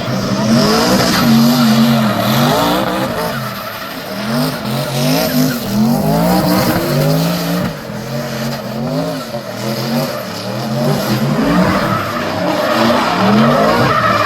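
Drift car engine revving up and down over and over as the driver works the throttle, with tyres squealing as the car slides.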